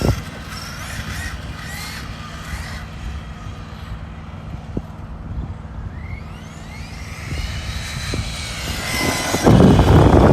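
Electric motor of an Arma Mojave 6S RC truck running on a 4S battery, its high whine rising in pitch several times as the truck accelerates. There is a knock at the very start, and a loud rough rush near the end.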